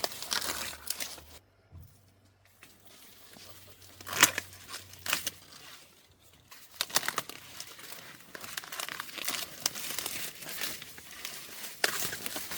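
Dry corn leaves and husks rustling and crinkling as ears are handled and picked among the stalks, with a few sharper, louder rips.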